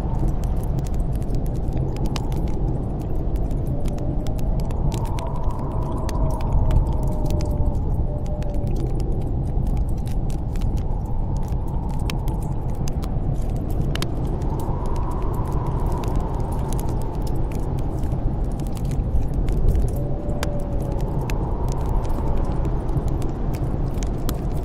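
Snowstorm wind blowing steadily with a deep rumble, howling in three rising-and-falling gusts, while a wood fire in a fireplace crackles with scattered sharp pops.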